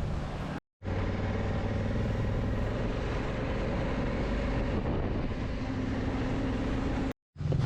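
Honda Africa Twin motorcycle engine running steadily under way with road and wind noise, its pitch rising a little past the middle. The sound drops out completely twice, briefly, at edit cuts.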